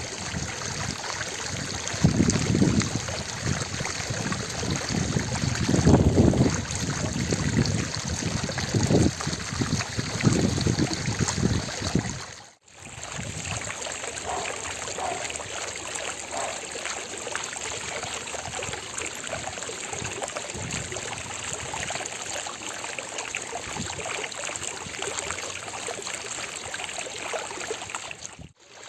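Water from an ornamental fountain splashing and falling steadily into its basin. In the first half it comes with heavier, uneven low surges, and the sound briefly drops out about twelve seconds in before the steady splashing resumes.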